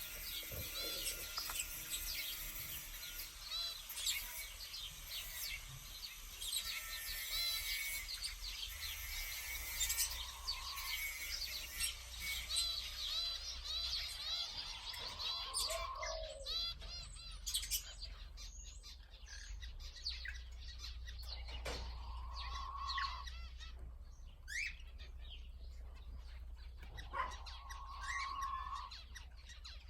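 Pet birds, conures among them, chirping and calling. Rapid high twittering fills the first half, and several drawn-out calls about a second long come later.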